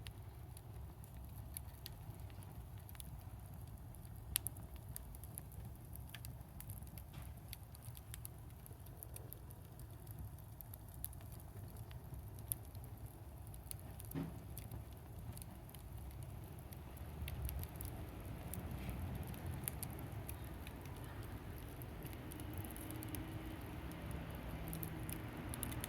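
Wood fire burning in a fire pit, faintly crackling: scattered small snaps and pops, a few sharper ones, over a low rumble. The fuel is pruned avocado wood and scrap lumber.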